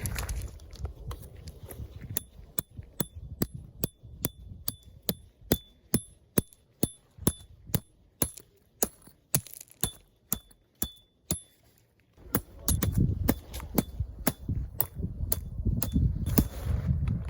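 Sharp metallic taps, about two a second, each with a brief high ring, stopping about two-thirds of the way through, with a low rumble over the last few seconds.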